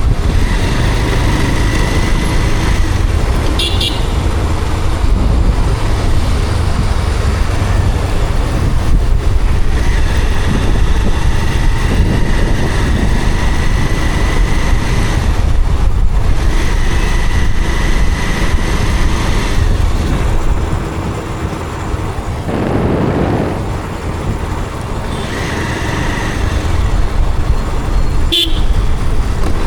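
Motorcycle riding through city traffic: a steady low rumble of engine and wind, with vehicle horns sounding several times.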